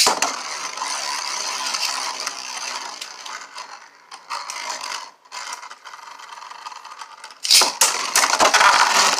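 Beyblade launcher ripped at the start, then spinning tops whirring and scraping in a plastic stadium. From about 7.5 s in comes a louder run of rapid clashing hits.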